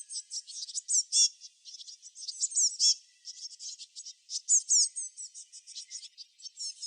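Small songbirds chirping and twittering in a dense, almost unbroken stream of quick, high-pitched notes, many of them short downward sweeps.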